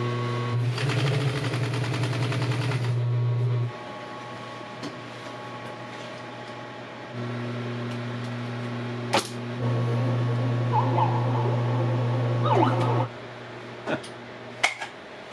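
Sewing machine stitching canvas in runs: the motor hums and the needle chatters rapidly for the first three seconds or so, stops, then runs again for about six seconds. A few sharp clicks come between and after the runs.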